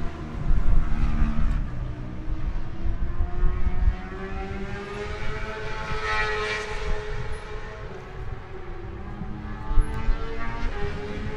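Classic racing motorcycle engine running, its pitch rising slowly, loudest about six seconds in, then falling away, over a heavy low rumble.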